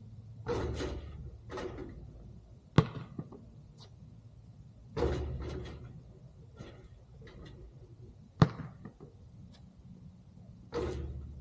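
Basketball shooting practice: a sharp bang of the ball striking something, twice, a few seconds apart, with softer, longer noisy sounds in between.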